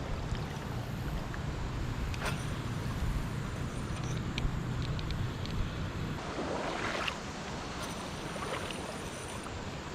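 Wind rumbling on the microphone over an even rush of river water, with a few light clicks. The rumble eases about six seconds in, and a brief rush of noise follows about a second later.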